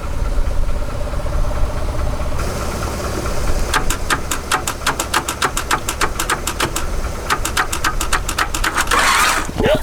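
Starter cranking the long-seized four-cylinder engine of a 1991 Honda CRX Si over, with the spark plugs out. About four seconds in it starts turning with a fast, even chuffing, about five strokes a second, as each cylinder pushes out the diesel poured down the plug holes. A brief loud rush of noise comes near the end.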